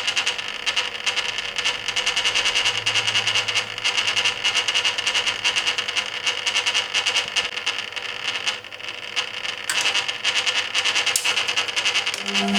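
1980 Hoover Keymatic A3112 washing machine in its rinse, the stainless steel drum turning the washload through the rinse water with the motor running; fine rapid clicking throughout, with a short lull about eight seconds in.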